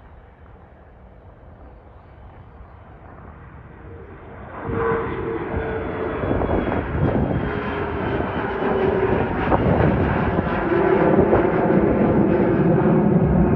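Twin rear-mounted GE CF34 turbofans of a Bombardier CRJ-900 regional jet. The engines are faint at first, then swell abruptly about four and a half seconds in and keep growing louder as the jet passes close, with a droning hum running through the noise.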